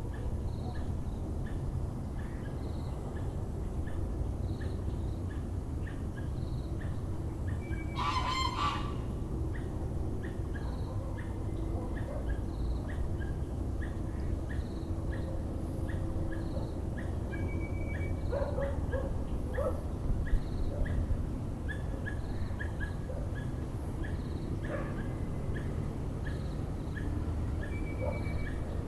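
Geese honking, the loudest call about eight seconds in with a few weaker ones later, over a Muller's barbet's steady run of short repeated notes and a constant low background hum.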